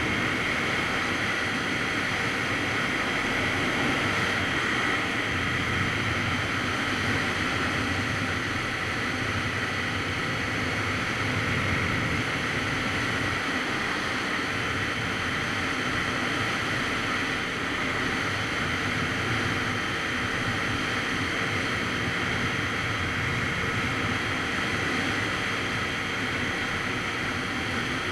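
Steady wind rush on the microphone of a Kawasaki Z900RS Cafe motorcycle under way, with the bike's inline-four engine running underneath at an even pace.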